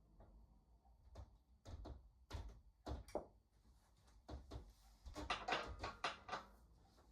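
A string of sharp knocks and clicks, about a dozen, coming thick and fast around five to six seconds in.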